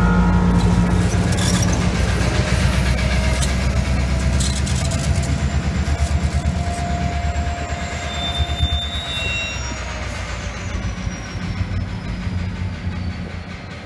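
Virginia Railway Express commuter train of bilevel passenger cars rolling past, with its diesel locomotive pushing at the rear. The wheels clatter over the rails in a steady rumble that fades as the train draws away.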